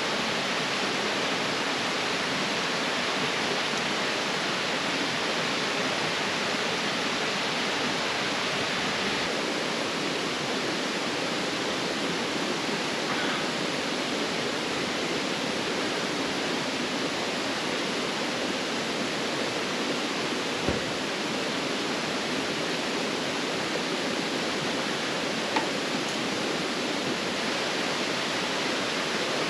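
A steady, even rushing noise with no change, with two faint clicks past the middle.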